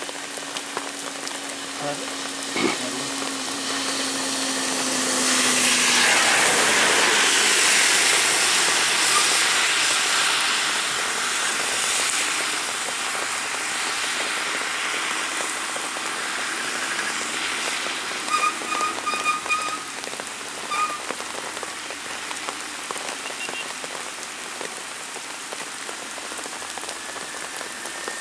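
Heavy rain falling steadily on a road, with vehicles driving through the wet. The hiss swells for several seconds near the start as a vehicle passes close on the wet asphalt. A string of short high beeps comes about two-thirds of the way in.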